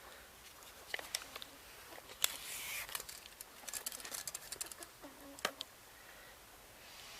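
Faint handling noise: scattered small clicks and a short rustle as a tape measure is worked against a metal rod that was pushed into ploughed soil.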